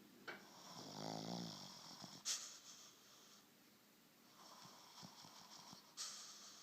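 Sleeping dog snoring: a pitched snore about a second in that trails into a long breathy hiss, then a second, softer breath later. A sharp click about two seconds in is the loudest moment, with another near the end.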